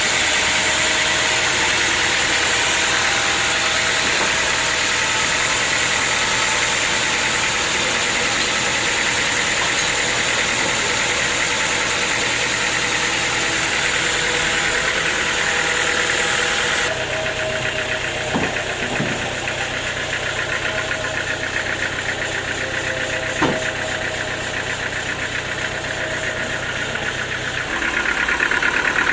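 Sawmill machinery running steadily, with the sound changing abruptly about two-thirds of the way in and again near the end, and a few short knocks in between.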